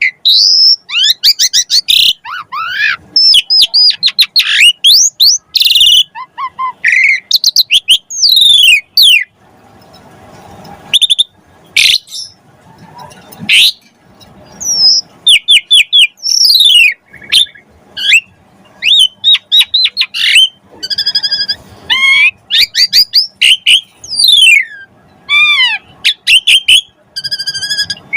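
Pied starling (jalak suren) singing a loud, varied song of clear whistles, rising and falling sweeps and rapid chattering notes, delivered in short phrases with brief pauses between them.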